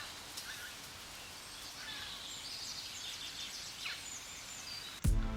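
Faint steady background hiss with a few short, scattered bird chirps. Loud electronic music with a beat cuts in suddenly near the end.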